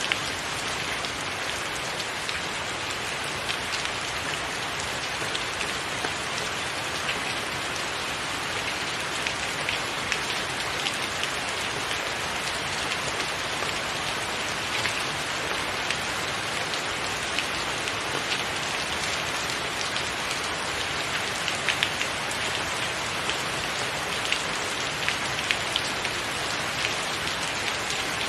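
Steady rain falling, a dense even hiss with scattered individual drops ticking sharply close by.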